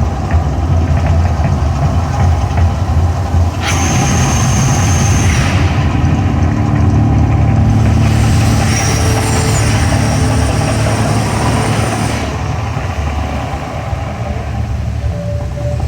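Deep, continuous rumbling from the volcano show's effects and sound system, with two surges of hissing, rushing noise layered over it, one about four seconds in and a longer one from about eight to twelve seconds.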